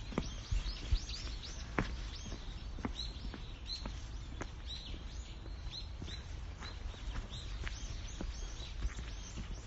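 Small birds chirping over and over, each call short, high and dropping in pitch, over a walker's footsteps on a forest path, about one step a second.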